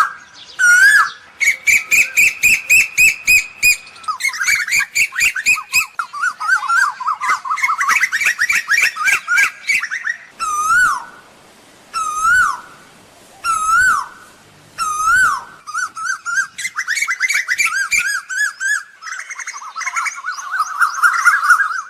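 Asian koel calls: single hooked whistled notes that rise and drop back, alternating with fast runs of sharp repeated notes, a bird-lure recording for calling koels in.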